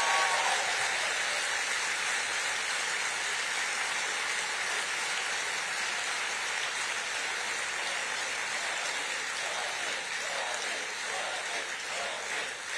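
Large audience applauding steadily, the clapping slowly dying down, with faint voices starting to come through near the end.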